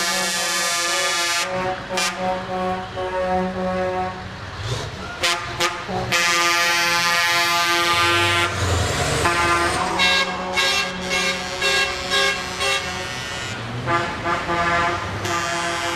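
Several truck air horns sounding together in a chord, held long at first, then breaking into many short toots.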